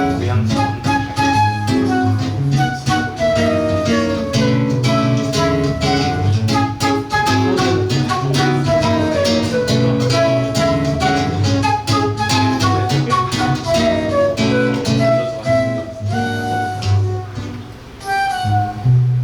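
Flute and seven-string acoustic guitar duo playing live, the guitar plucking a busy rhythmic accompaniment under a flowing flute melody, thinning out briefly near the end.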